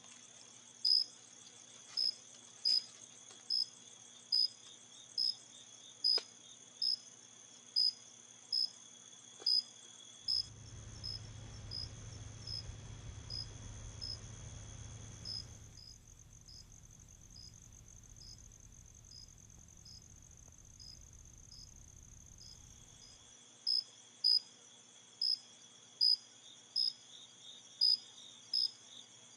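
Insects calling: a steady high trill with a louder chirp repeating a little faster than once a second. About ten seconds in, a low rumble comes up and the chirps stop for several seconds before returning near the end.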